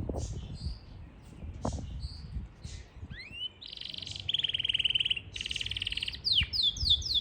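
Yorkshire canary singing: scattered short chirps and rising notes, then from about halfway a fast, rolling trill, and near the end a quick run of descending whistles.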